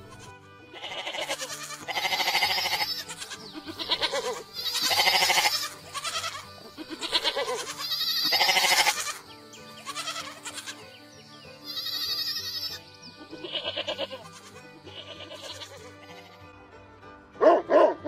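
Goats bleating, a dozen or so separate wavering calls one after another. Near the end a dog gives two short barks.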